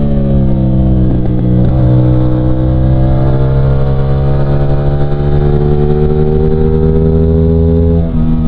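CFMOTO 450SR's 450cc parallel-twin engine under way. The engine note sags a little at first, then climbs slowly and steadily for several seconds, and near the end it dips briefly and drops in pitch, as at an upshift.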